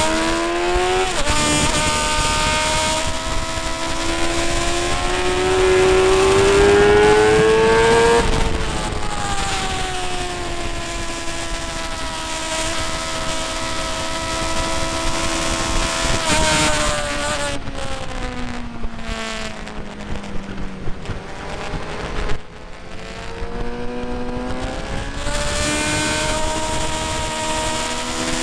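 Motorcycle engine at high revs lapping a race circuit, with heavy wind rush. The pitch climbs hard for the first eight seconds, drops as it slows, eases lower and quieter in the middle, then picks up again near the end.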